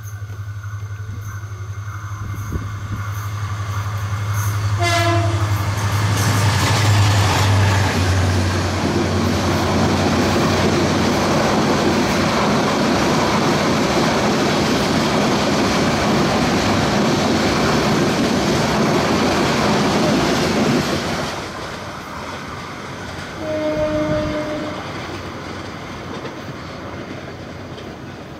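Diesel locomotive of an express passenger train approaching with a low steady engine drone, sounding a short horn blast about five seconds in. The coaches then run past with a loud, steady rumble of wheels on rail. Later comes a second short horn blast, and the rumble fades as the train goes away.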